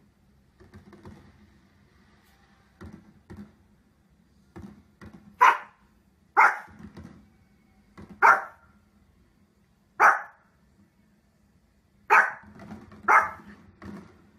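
A small Pomeranian-type dog barking in short, sharp single barks, about seven of them spaced a second or two apart. They start about five seconds in.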